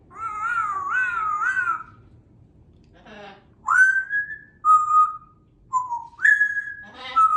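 African grey parrot whistling: a warbling, wavering whistle for about two seconds, then a short raspy call and a run of clear whistled notes, each held briefly at a different pitch.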